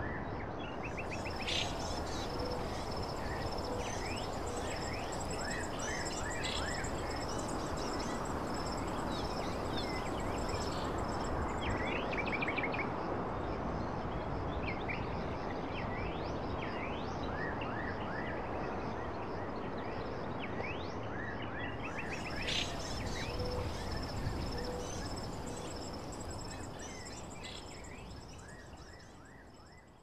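Small songbirds chirping, with many short quick calls, over a steady hiss of outdoor background noise and a thin, continuous high-pitched tone. The sound fades out near the end.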